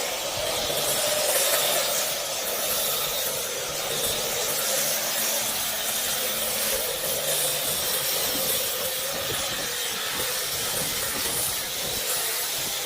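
Spray washer jetting onto a car's engine bay: a steady, dense hiss, with a low hum from the washer's motor fading in and out.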